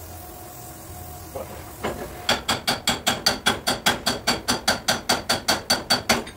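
Hammer blows on car body sheet metal: a couple of light taps, then a quick, even run of about five ringing strikes a second that stops abruptly. This is typical of panel beating a dent.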